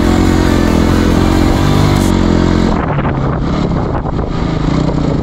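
Dirt bike engine running under throttle while riding, a dense steady drone with its pitch wavering slightly.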